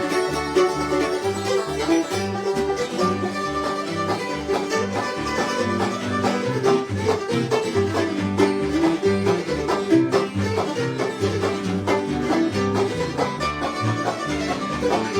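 Bluegrass band playing an up-tempo instrumental: picked banjo and guitar with a fiddle, over bass notes on a steady beat of about two a second.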